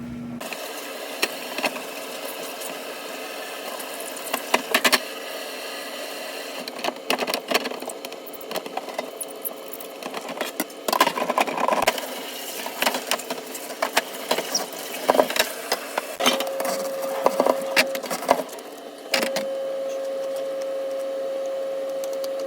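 Refrigerator shelves and trays being washed by hand at a sink: irregular clatter and knocks of the parts being handled and scrubbed. A steady tone comes in twice in the second half, the second time louder.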